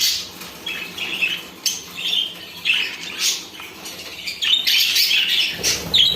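Birds calling in a string of short, harsh chirps and squawks, some overlapping, busiest near the start and again near the end.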